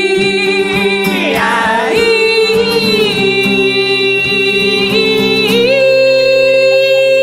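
A voice holds long sung notes on a vowel, sliding to a new pitch a few times, over a steady held chord from an instrument.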